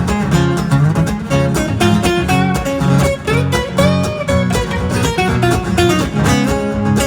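Instrumental break in a country song: acoustic guitar strummed in a steady rhythm, with pitched notes sounding over the strumming.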